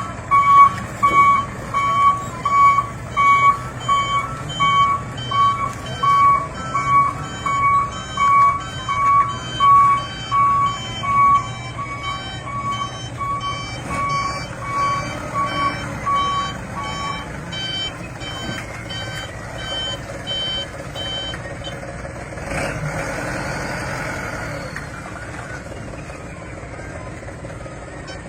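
Truck reversing alarms beeping in a steady rhythm, about one and a half beeps a second, with two alarms at different pitches overlapping. The lower one stops about two-thirds of the way in and the higher one a few seconds later, leaving a truck engine running.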